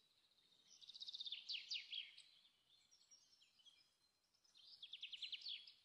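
Faint bird song: two short phrases of quick, high chirps, one about a second in and another near the end.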